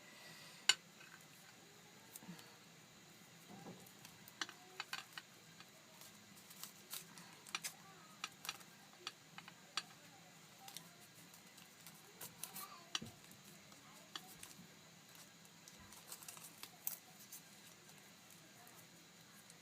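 Quiet handling sounds of thin copper wire and paper tape being worked by hand: scattered small clicks, taps and crinkles at an irregular pace, with one sharper click about a second in.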